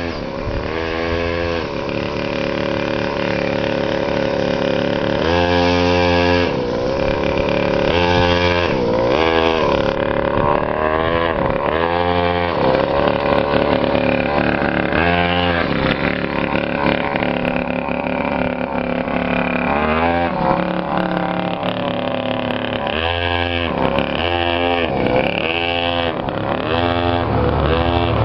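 A small motorcycle engine runs continuously, its pitch repeatedly falling and rising every second or two as the throttle is eased off and opened again.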